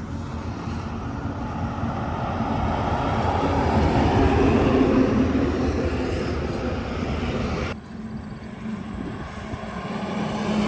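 Heavy truck passing along a highway, engine drone and tyre noise swelling to a peak about halfway and easing off. The sound drops off abruptly near the end, and the next vehicle is heard approaching.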